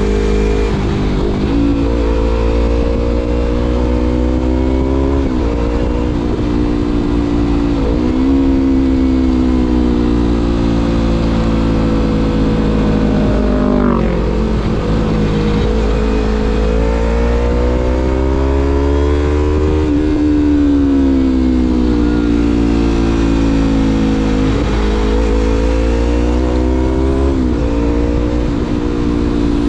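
Exhaust note of a 2016 Yamaha MT-25's parallel-twin engine through a Shadux Viper Pro Race aftermarket exhaust, accelerating on the road. The pitch climbs and drops sharply at each gear change, about a second in and repeatedly after that, with longer, slower rises and falls in the middle.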